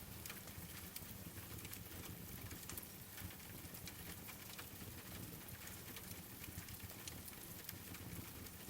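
Wood fire crackling with steady rain: frequent small, sharp crackles over an even hiss and a low rumble.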